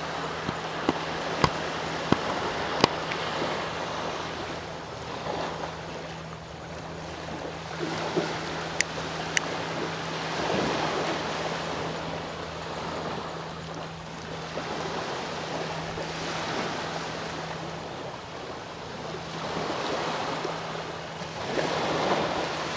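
Sea waves washing onto the shore, swelling and fading every few seconds. A steady low hum runs under them and stops a few seconds before the end, and a few sharp clicks come near the start and again about nine seconds in.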